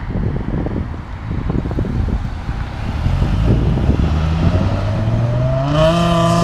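A car's engine and exhaust accelerating as it pulls away, the note rising sharply near the end as it revs hard. Low rumble and wind buffeting on the microphone come before it.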